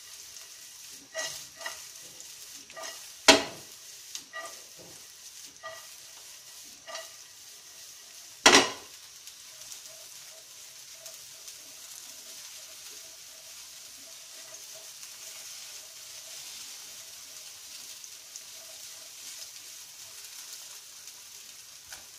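Chicken steaks sizzling steadily in hot oil in a frying pan, with vegetables being stir-fried in a second pan: a spatula clicks and scrapes against the pan for the first several seconds. Two loud, sharp knocks come about three and eight and a half seconds in, after which only the sizzle remains.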